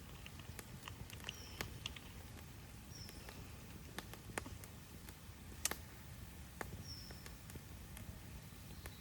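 Burning firewood crackling in a campfire: irregular sharp pops and snaps over a steady low rumble, the loudest snap a little past halfway.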